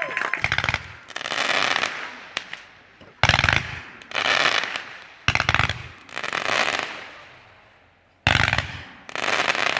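Fireworks bursting four times, each sharp bang followed by about a second of crackling that dies away.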